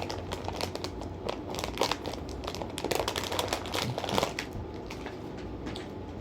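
Plastic M&M's candy bag crinkling as it is handled, a run of irregular crackles that dies down about four and a half seconds in.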